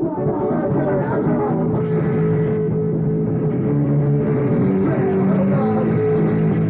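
Live band playing a loud rock song with electric guitars, bass and drums.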